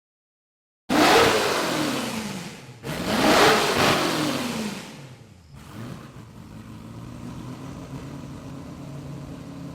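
Motor vehicle engines: two loud swells of engine noise, each rising quickly and fading over about two seconds, then a steady, quieter engine running from about halfway through.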